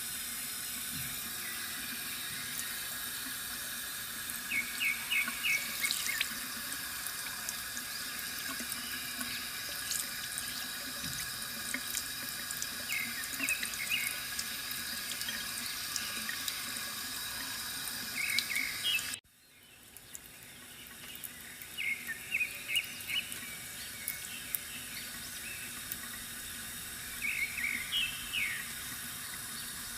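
Water trickling steadily from a bamboo water fountain, with small birds chirping in short bursts every few seconds. A little past the middle, the sound cuts out abruptly and then fades back in.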